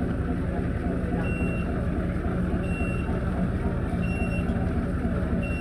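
A vehicle's reversing alarm beeping four times, one short high beep about every second and a half, over the steady low rumble of a running engine.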